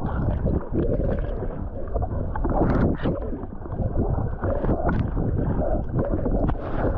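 Wind buffeting a phone microphone over rough, splashing water, a dense unbroken noise with scattered splashes.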